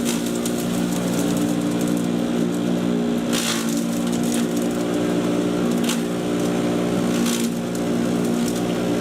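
Patriot 1.5-HP electric chipper shredder running steadily with its motor hum, with three brief bursts of crackling as wood is chipped, about a third, two-thirds and four-fifths of the way through.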